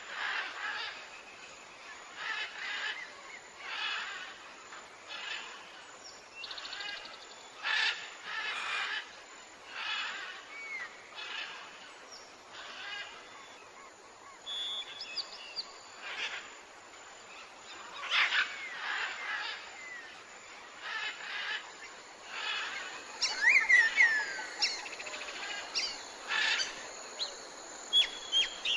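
Wild birds calling outdoors: one call repeated about once a second, with a few loud, quick gliding chirps about three-quarters of the way through.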